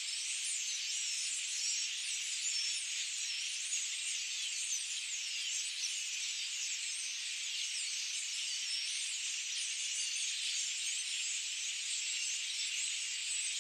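Dense, steady chorus of many overlapping high-pitched chirps and trills from wild animals, unbroken and without any low sound.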